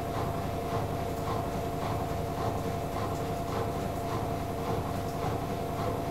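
AEG Lavamat L88489FL washing machine with its drum turning: a steady motor whine under an even rhythmic pulse that repeats a few times a second.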